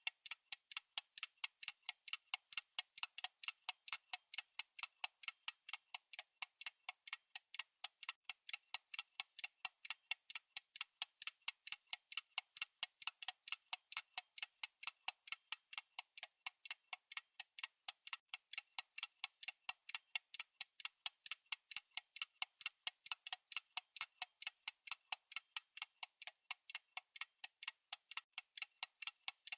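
Steady ticking of a countdown timer's clock-tick sound effect: crisp, evenly spaced ticks, several a second, without a break.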